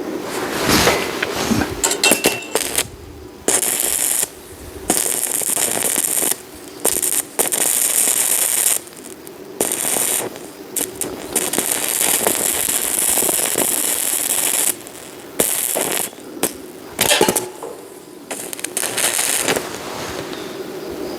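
Electric arc welding: the arc crackles and sizzles in runs of one to a few seconds, breaking off several times as the arc is stopped and struck again.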